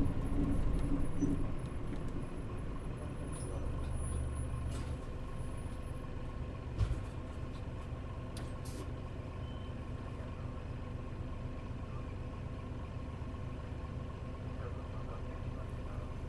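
Mitsubishi Fuso Aero Star bus's diesel engine idling with a steady low hum, heard from inside the passenger cabin while the bus stands at a stop. A single short thump comes about seven seconds in.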